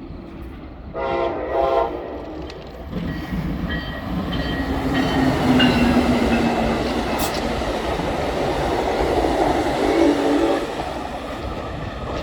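Pacific Surfliner passenger train sounding its horn in two short blasts about a second in, then running past with rising rumble and rail noise. There is another short horn blast near the end.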